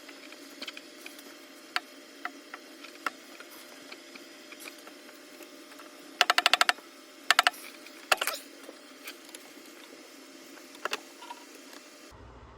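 Light clicks and taps of the plastic upper intake plenum and its gasket being worked into place by hand, with two quick bursts of rapid clicking about halfway through and a single sharp click just after.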